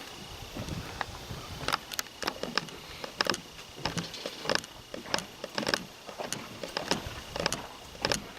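Footsteps of a person walking, about two steps a second, each a short crunch, with a faint steady high tone behind them.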